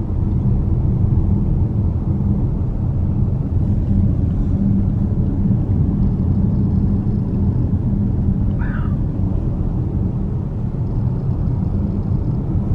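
Steady low road and engine rumble heard from inside a moving car on the highway, with a brief higher-pitched sound about nine seconds in.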